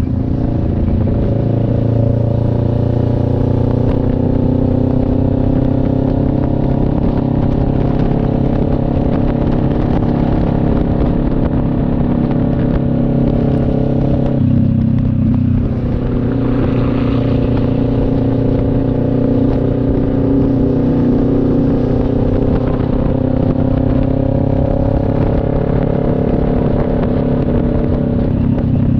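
CF Moto NK400 two-cylinder motorcycle engine running steadily under way, its note drifting slightly up and down, with a brief break in the note about halfway through, as at a gear change.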